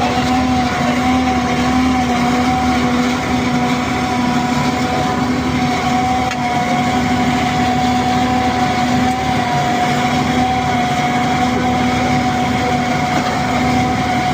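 A tractor-mounted hydraulic pile machine running steadily under the tractor's engine, with a steady whine over the engine.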